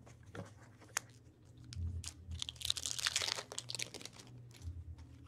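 Hockey card pack wrapper being torn open and crinkled, loudest about three seconds in, amid small clicks and rustles of cards being handled.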